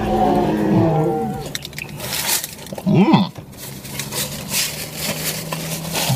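A man biting into and chewing a bacon, sausage and egg breakfast sandwich on a toasted bun: wet chewing and crunchy mouth noises, with appreciative closed-mouth 'mmm' hums at the start and again about three seconds in. Near the end there is a paper napkin rubbing against his mouth.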